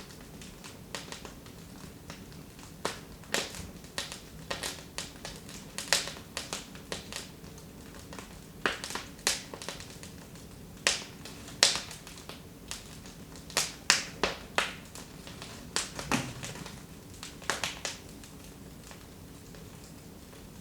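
Wood fire in a fireplace crackling, with irregular sharp pops that come in clusters and some quiet gaps. There is a soft low thump about sixteen seconds in.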